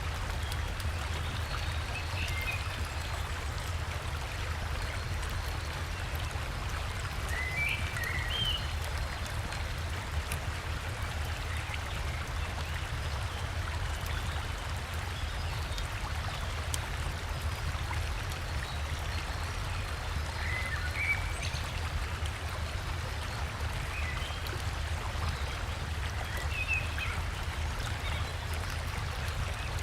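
Steady rushing of a forest river and waterfall, with a deep low rumble under it. Short bird chirps come through now and then, about half a dozen times.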